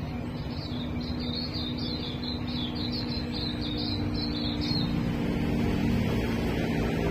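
A small bird singing a fast, jumbled run of high chirps for about four seconds, then stopping, over a steady low hum.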